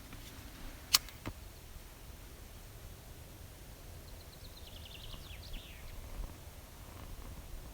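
A sharp knock about a second in, with a fainter one just after, then a small songbird sings a short trill of quick notes falling in pitch, over a low background rumble.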